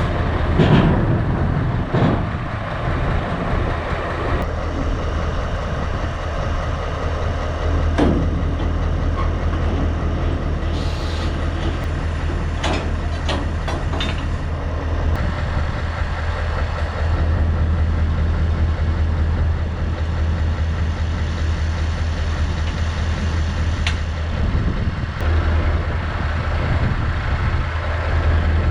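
Scania S650 truck's 16.4-litre V8 diesel running with a steady low drone, with a few sharp clicks about halfway through.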